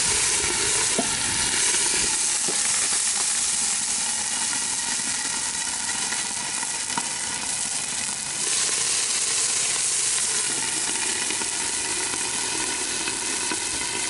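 Vegetables sizzling on a hot Blackstone flat-top griddle under a steam lid, with the added water hissing into steam; a steady hiss, briefly brighter about eight seconds in.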